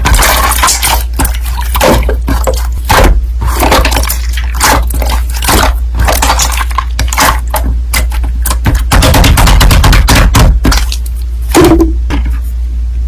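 Slime being squished and stretched by hand, giving a dense run of crackling, clicking pops, over a steady low hum.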